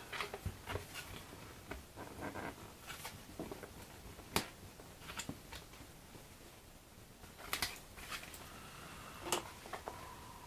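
Hands working with small parts and tools on a model-building bench: light clicks, taps and rustles, with a sharp click about four seconds in.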